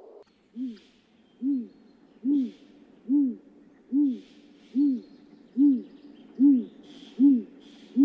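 A bird giving a steady series of short, low hoots, a little under one a second, about ten in all, with faint higher bird calls behind.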